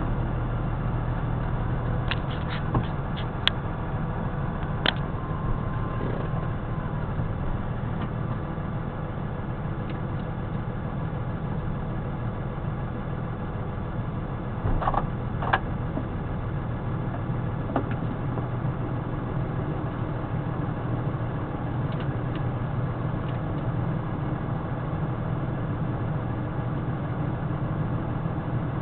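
Truck engine running steadily. A few sharp clicks and knocks come about two to five seconds in, and a short pair of sounds comes about fifteen seconds in.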